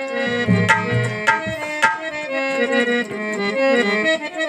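Instrumental break in a devotional bhajan: a harmonium plays the melody over sharp dholak drum strokes, about two a second at first, thinning out about halfway.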